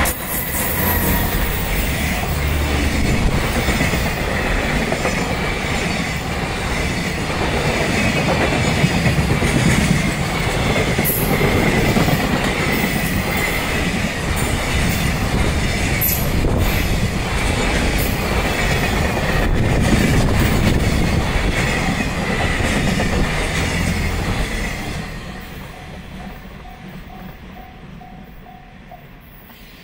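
A JR Freight EF210 electric locomotive and its long string of container flatcars pass close by, with the loud, steady rumble and clatter of wheels on rail. The sound fades quickly about 25 seconds in as the last wagon moves away.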